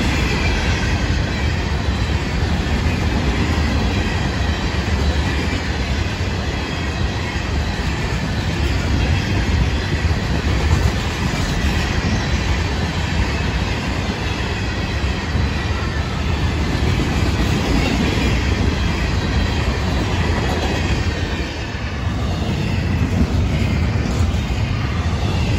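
Freight train of hopper cars rolling past close by: a steady, loud rumble of steel wheels on rail with a faint, high, wavering squeal. Double-stack container cars follow near the end.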